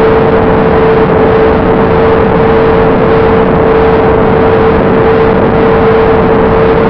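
Electric motor and propeller of an FPV model plane held at a steady cruise throttle, heard from the on-board camera: one constant whine under heavy wind rush on the airframe, with no change in pitch.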